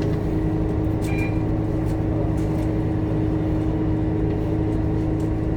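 Scania K230UB bus's diesel engine running at a steady speed, a constant droning hum with several steady tones. A faint click with a brief high beep about a second in.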